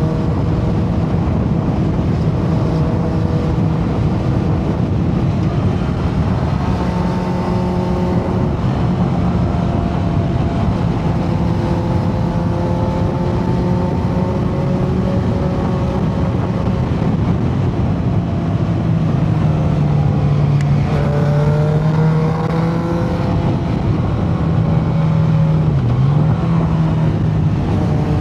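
Motorcycle engine running at steady riding revs over a constant noisy rush. Its pitch rises and falls gently several times with the throttle, with a quick dip and recovery near the end.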